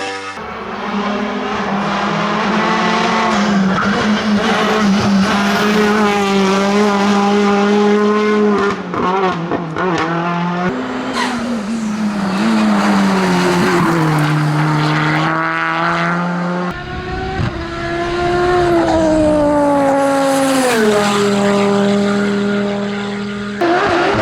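Racing car engine running hard at high revs, its pitch holding, then dropping several times as the driver lifts off or shifts down, and climbing again each time. A sudden change near the end.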